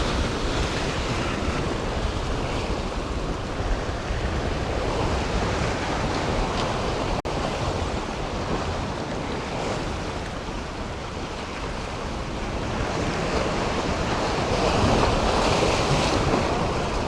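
Gulf surf washing against jetty rocks, with wind buffeting the microphone; the wash swells louder for a few seconds past the middle.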